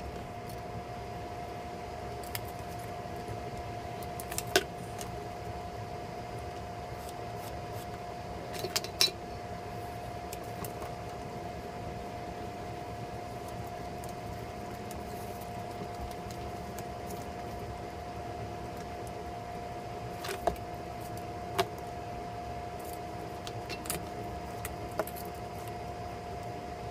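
Steady room hum with a thin, constant tone, broken by a few short sharp clicks and taps, about four or five scattered through, from the foam floor pieces and tools being handled.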